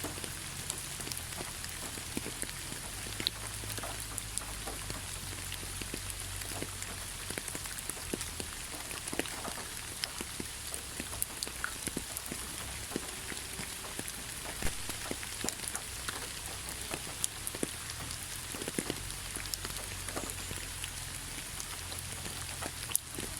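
Heavy rain falling steadily, a constant hiss with many individual drops tapping sharply on a surface close by.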